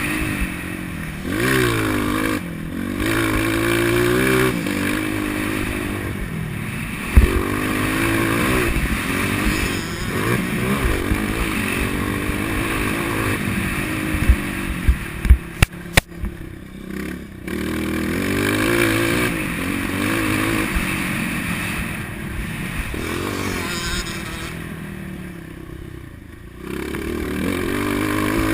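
Motocross bike engine revving up and down as it is ridden around a dirt track, with the throttle closing off twice. There are a few sharp knocks and clatters, one about a quarter of the way in and a cluster near the middle.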